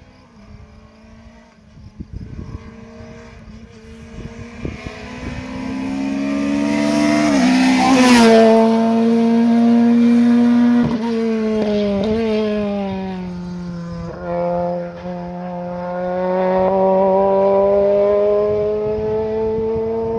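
Rally car driving past flat out, its engine growing louder to a peak about eight seconds in, where the note drops as it passes. It keeps pulling hard away with quick gear changes around eleven and fourteen seconds, the revs climbing again after each.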